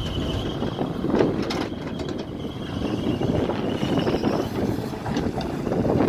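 Mini excavator running, its engine and machinery going steadily, with a few sharp clicks and knocks about a second in.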